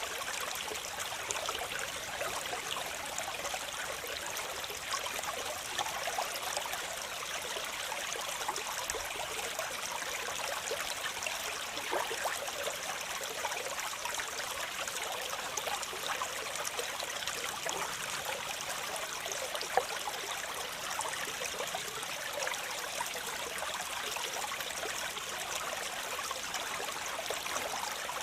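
Waterfall water splashing and running steadily, full of small splashes with little deep rumble.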